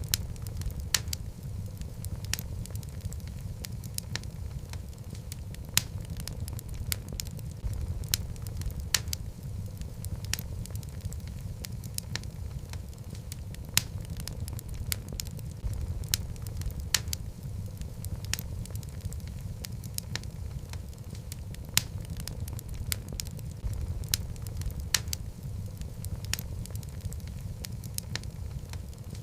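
Wood fire of burning logs in a fireplace: a steady low rumble of flames with irregular crackles and occasional sharp pops.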